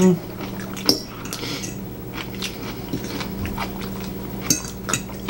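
People chewing and biting into croissant sandwiches, with a few sharp clicks of cutlery and glass on the table and a steady low hum underneath.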